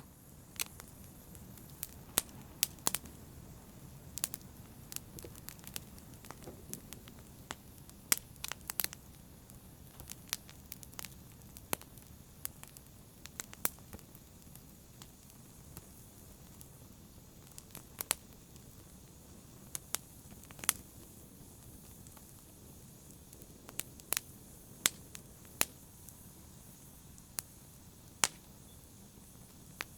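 Open fire crackling: irregular sharp pops and snaps, a few much louder than the rest, over a low steady rush of burning.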